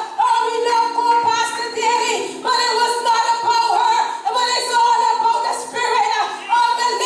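A high voice singing long, held phrases with short slides between notes, over a low steady sustained note.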